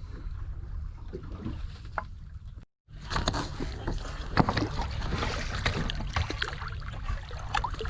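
Steady low rumble of wind and sea on a small open boat, with knocks and clicks of handling on deck. The sound drops out completely for a moment about three seconds in, and is louder and busier with knocks after that.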